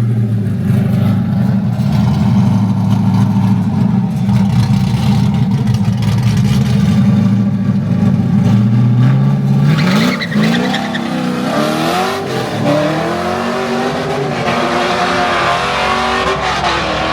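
LQ4 V8 engine in a drift car, running at a steady low rumble, then about ten seconds in revving hard as the car launches down the drag strip. Its pitch climbs and drops back in steps as it shifts up through the gears.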